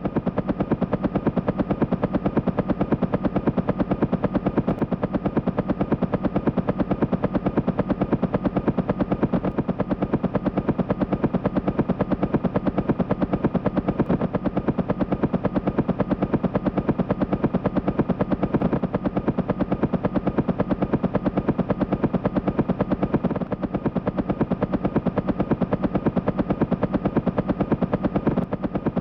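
Helicopter running close by, its rotor blades beating in a fast, even pulse over a steady engine tone. The sound holds at the same level throughout.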